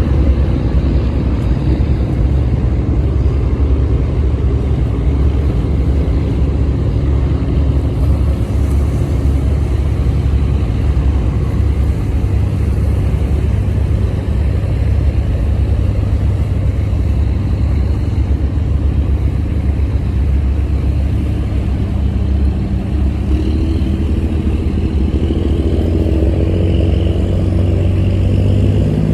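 Squid-fishing boat's diesel engine running steadily under way, a loud low drone whose pitch shifts a little in the last few seconds.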